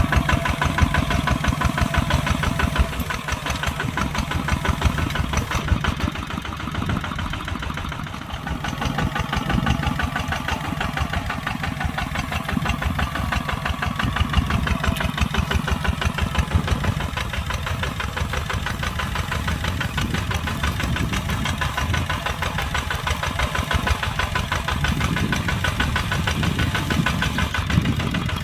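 Kubota tractor's diesel engine running steadily with a rapid even firing beat.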